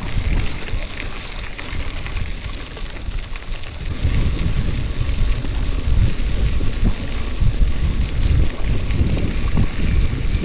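Wind buffeting the microphone of a camera carried on a moving bicycle, a steady rush that turns into heavier low rumbling about four seconds in.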